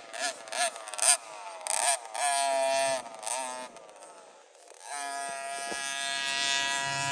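Motocross dirt bike engines revving on the track: a high-pitched buzz that rises and falls in pitch with each throttle blip and gear change, drops away briefly about four seconds in, then comes back as a steady, slowly rising drone.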